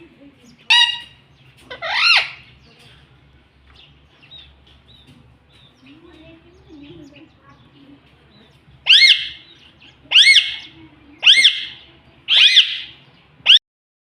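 Pet ring-necked parrot calling in short, sharp, rising-then-falling squawks: two near the start, then after a quiet stretch a run of five about a second apart.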